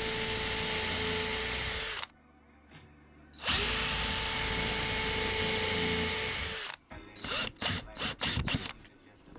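Power drill running at a steady speed in two long bursts, about two and three seconds long, with a short pause between them, followed by a series of short, sharp knocks.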